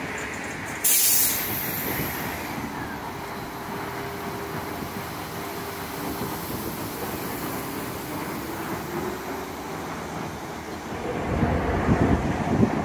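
Transperth electric multiple-unit train pulling away along the platform. About a second in, a short, sharp burst of air hiss from its brakes, then a steady rolling rumble with a faint steady whine as it moves off. A louder low rumble comes in near the end.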